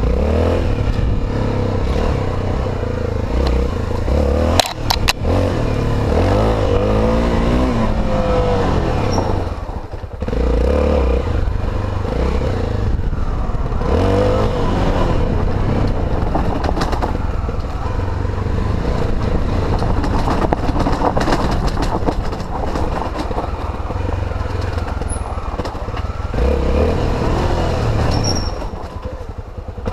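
Honda XR250 Tornado's single-cylinder four-stroke engine under way, revs rising and falling with the throttle. The throttle is briefly closed about ten seconds in and again near the end. There is a sharp knock about five seconds in.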